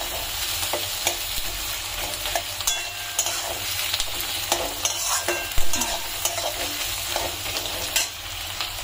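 Sliced onions sizzling in hot oil in a steel kadai while a metal spatula stirs them, scraping and clinking against the pan at irregular moments, with one louder clack a little past halfway. This is the onion-frying stage of a chicken curry, before the chicken goes in.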